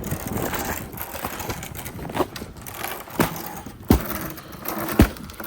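Footsteps crunching through crusted, icy snow: several heavy steps about a second apart, the last the loudest.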